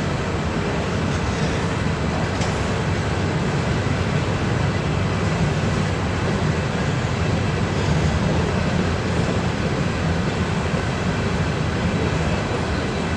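Freight train passing on the track: a loud, steady noise of the train running by, with no horn.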